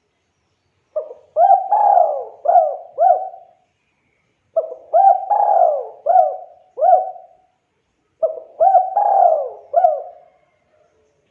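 Spotted dove (tekukur) cooing: three phrases of about five notes each, a few seconds apart.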